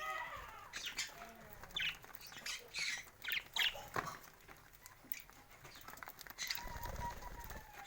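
Kept birds making short, scattered calls and squawks, with wings flapping.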